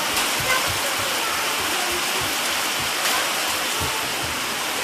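Steady rain pouring down, a continuous even hiss.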